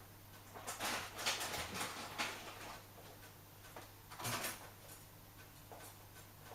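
Whirlpool washing machine running a cold wash cycle: irregular swishing bursts, several in the first half and one more about four seconds in, over a steady low hum.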